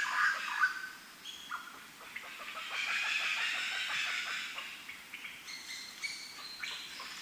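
Several birds calling: a loud call right at the start, then a busy stretch of chattering calls through the middle, with many short clicking notes throughout.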